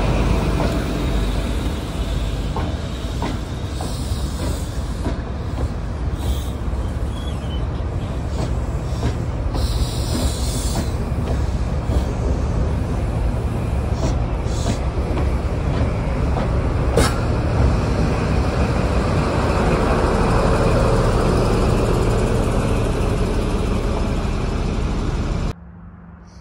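High Speed Train running past: a steady, loud rumble from the Class 43 diesel power cars and the Mk3 coaches' wheels on the rails, with a few sharp clicks from the wheels. It drops suddenly to a much quieter background near the end.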